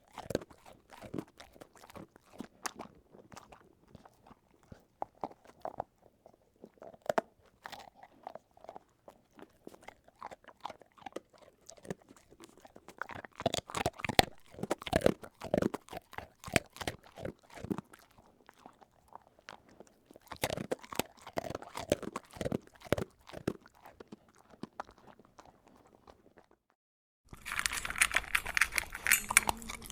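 Crunchy food being bitten and chewed: irregular crackling crunches in bursts, with short pauses between mouthfuls. Near the end a different, louder and denser crunching begins after a brief silence.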